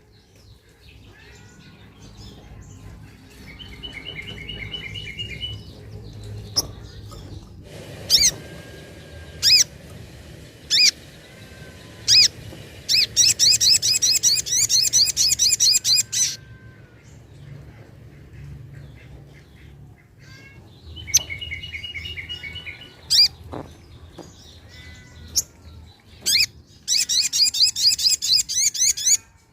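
Sogok ontong (little spiderhunter) singing. It gives sharp single notes and short chattering phrases, and twice a loud, rapid, high trill of repeated notes lasting two to three seconds, the second near the end.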